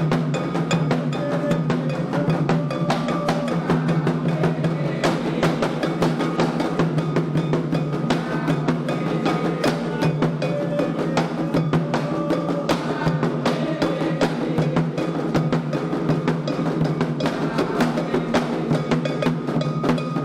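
Candomblé ritual drumming: atabaque hand drums playing a fast, steady rhythm with a struck bell ringing over the drums.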